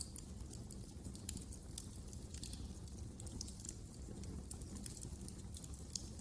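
Wood fire crackling in a fireplace: irregular sharp pops and snaps, several a second, over a steady low rumble of burning.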